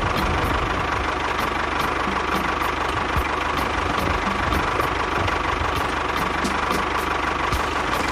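Small engine of a homemade mini tractor running steadily at idle, with a fast, even knocking beat.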